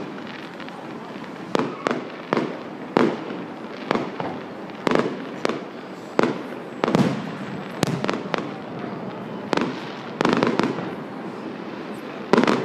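Aerial fireworks bursting, a rapid, irregular string of about fifteen bangs, one or two a second, some trailing a brief echoing crackle.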